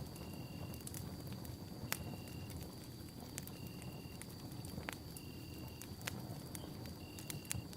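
Campfire burning with a steady low rush and irregular sharp crackles and pops from the burning wood. Behind it a steady high tone holds, and a short, higher tone repeats regularly about every second and a half.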